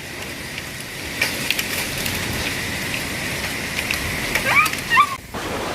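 Heavy rain and hail pelting down in a storm: a steady hiss that builds about a second in, scattered with sharp ticks of hailstones striking.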